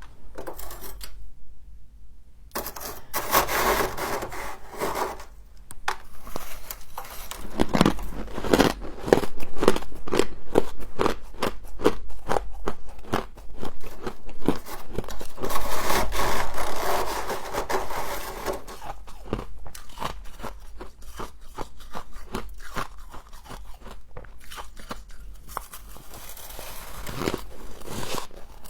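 Humidifier frost being bitten and chewed close to the microphone: dense, irregular crunching and crackling, heavier in a few longer stretches of bites.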